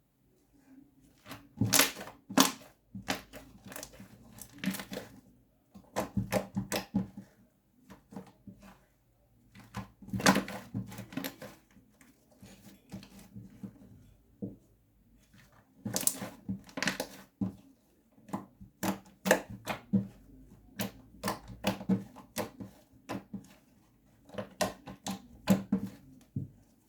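Slime being squeezed and worked by hand, giving bursts of sharp, crackly clicks a second or two long with short quiet gaps between them.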